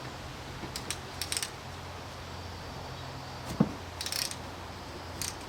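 Small metal clinks and taps of hand tools and fasteners being handled during brake work, with one louder knock about three and a half seconds in.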